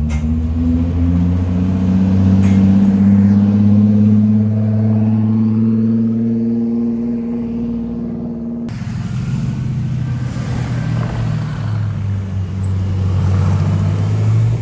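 Sports car engines running at low speed in slow traffic: a steady, deep drone whose pitch drifts slowly. About nine seconds in the sound changes abruptly to another running engine.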